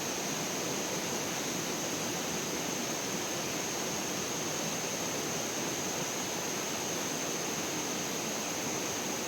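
Steady rushing of flowing water, even and unbroken, with a thin, steady high-pitched tone over it.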